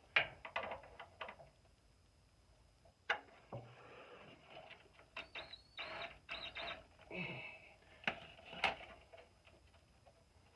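Scattered metallic clicks, taps and short scrapes from hand work on a muffler as a loose flap along its split seam is pushed down and fastened with sheet metal screws. The taps come irregularly, with a pause of a second or so early on and a cluster of clicks in the middle.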